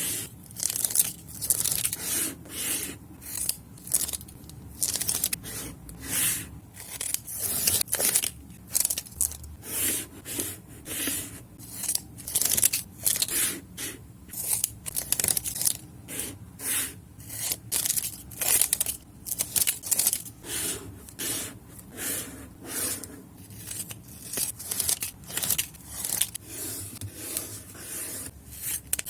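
Journaling craft sounds of paper and sticker sheets being worked by hand: a steady run of short, crisp, papery strokes, roughly one to two a second.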